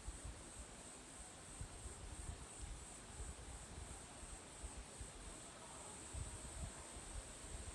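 Faint, steady high-pitched insect chorus with a slight pulsing, over low, irregular rumbles of wind on the microphone.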